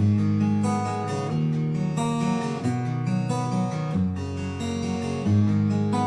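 Background music: strummed acoustic guitar, with chords changing about every second or so.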